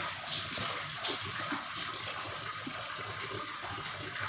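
Water running steadily from a tap, with a few faint knocks.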